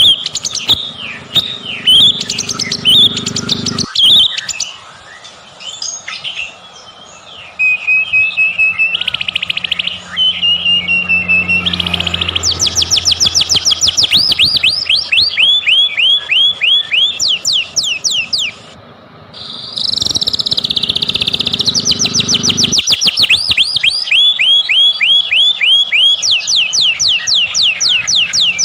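White-rumped shama (murai batu) singing loudly and without letup: varied whistled phrases, then long runs of fast repeated notes, about four or five a second, with a brief pause about two-thirds of the way through.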